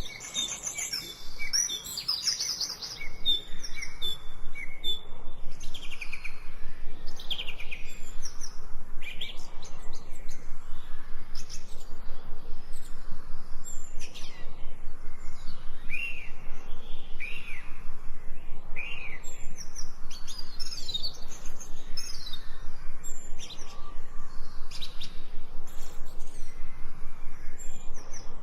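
Several songbirds singing and calling, with many quick chirps and short falling whistles overlapping one another, over a steady background hiss.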